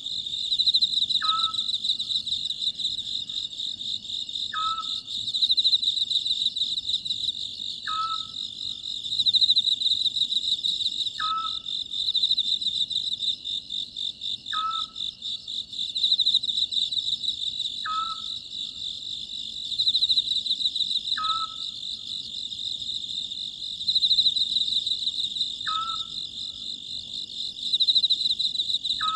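Oriental scops owl (소쩍새) calling at night: one short note repeated about every three seconds, over a steady high, pulsing chorus of crickets.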